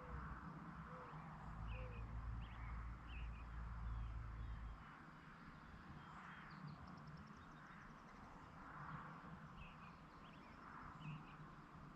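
Faint rural evening ambience of small birds chirping on and off, with a brief rapid trill in the middle. A low rumble underneath stops about halfway through.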